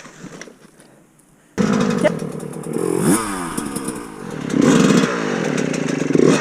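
Dirt bike engine cutting in abruptly about a second and a half in, then revving up and down in repeated throttle blips as the bike is worked over a log.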